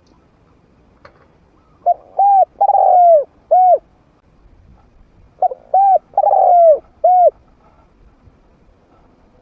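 Spotted dove cooing with a mid-pitched voice, the call of a trained decoy bird: two phrases of four notes each, the second about three and a half seconds after the first.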